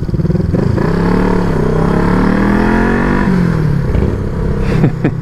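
Small two-cylinder motorcycle engine revving up as the bike pulls away, its pitch rising for about two seconds before easing off. A few short knocks come near the end.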